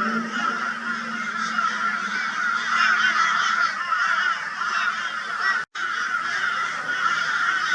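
A flock of crows calling raucously in a dense, unbroken chorus of overlapping harsh calls, the mobbing noise crows make at a barn owl. The sound cuts out completely for a split second about three-quarters of the way through.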